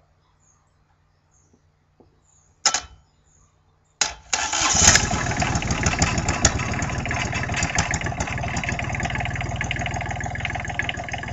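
Small rebuilt diesel engine started after its glow plugs are preheated: a short burst of sound just before three seconds in, then about four seconds in it catches and runs steadily.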